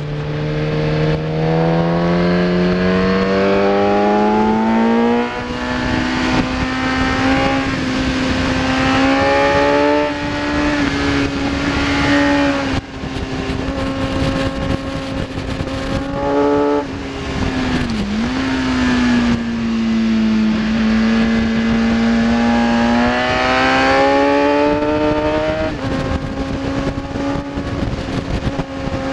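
Kawasaki ZX-10R inline-four engine at high revs on track: the pitch climbs steadily for the first few seconds, then holds high, with a few short breaks as gears change and a brief dip around the middle before it climbs again near the end.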